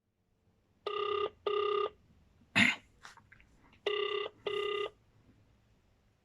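Telephone ringback tone heard over the phone line while an outgoing call rings: a double ring, two short tones close together, heard twice. A sharp click falls between the two double rings.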